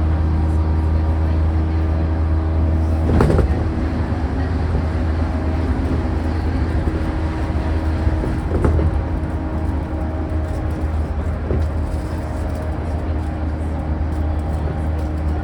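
Interior running sound of a JR E235-1000 series EMU motor car, with Mitsubishi full-SiC MOSFET VVVF traction equipment, at steady speed: a steady low rumble with several held tones from the motor drive that fade away about 11 seconds in. Two short clunks from the running gear cut through, about 3 and 8.5 seconds in.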